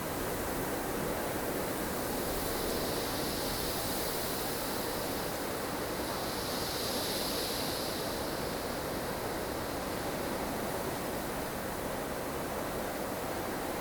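Blustery snowstorm ambience: strong wind blowing as a steady rushing hiss, with gusts swelling twice, a few seconds in and again around the middle.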